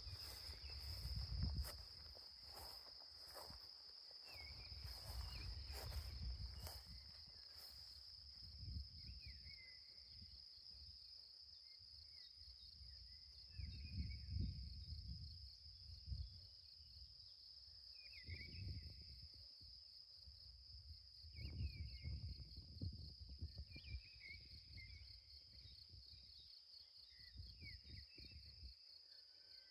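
A high, steady insect trill runs throughout, with scattered short bird chirps over it. There is an intermittent low rumble, strongest in the first few seconds and again around the middle.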